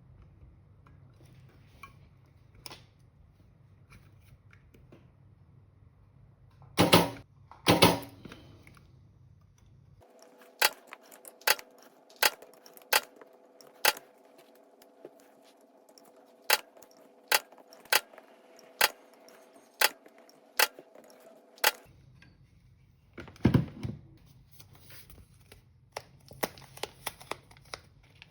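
Battery spot welder firing on 18650 cells: a steady run of sharp snaps, about one every 0.7 seconds, over a faint steady hum. A few louder, longer clatters come before the run and again after it.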